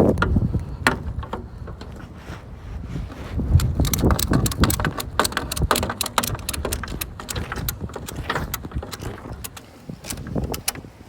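Ratchet on a car hauler's tie-down strap being cranked, a run of irregular metallic clicks, with wind and a low rumble underneath.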